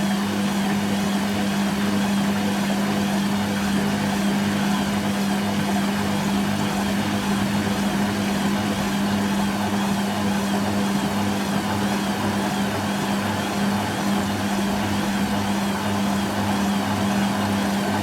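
Hoover Quattro AE130 washing machine running steadily on a rinse-and-spin programme: a constant low hum with a faint regular pulse under it and a wash of water and machine noise.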